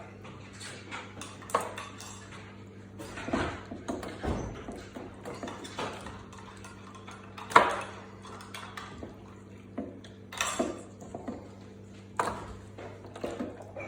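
Kitchen clatter: scattered clinks and knocks of utensils and a metal baking tray as chicken pieces are laid in, the sharpest about halfway through, over a steady low hum.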